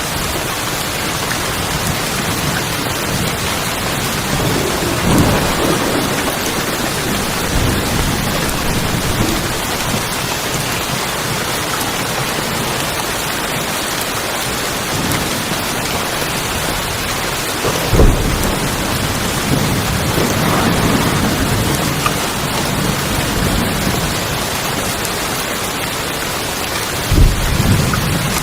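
Steady heavy rain drumming on tin roofs, with thunder rolling in several times; the sharpest claps come about two-thirds of the way through and again near the end.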